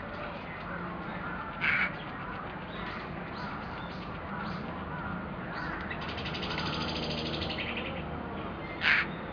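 A crow cawing: two short, loud calls about seven seconds apart, over steady background noise.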